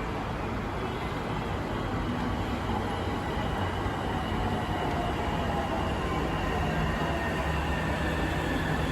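MRT Purple Line electric metro train running, with a steady rumble and a faint motor whine that slowly glides in pitch, growing a little louder.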